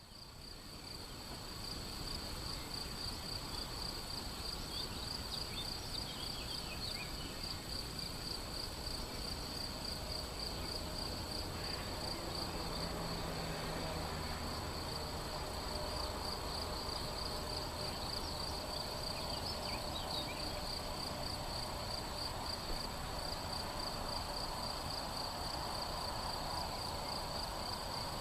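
Crickets trilling steadily in a meadow, a continuous high pulsing buzz, with a few faint bird chirps now and then.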